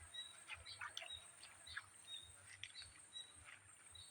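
Faint bird chirps: short high notes repeated several times a second, over a steady thin high tone and a few soft clicks.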